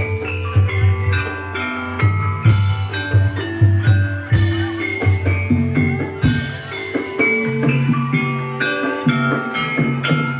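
Javanese gamelan-style music for an ebeg dance: struck metallophones playing a running melody of ringing notes over frequent low drum strokes from a kendang.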